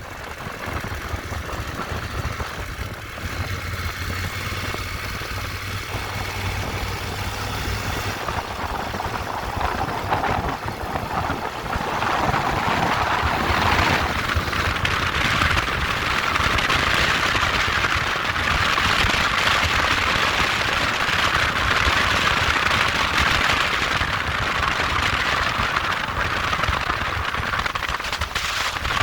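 Motorbike engine running, with a broad hiss that grows louder from about twelve seconds in.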